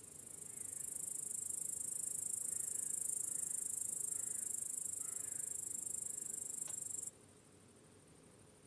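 Crickets trilling in one continuous high-pitched buzz that swells in over the first second and cuts off abruptly about seven seconds in. Faint chirps sound underneath in the middle.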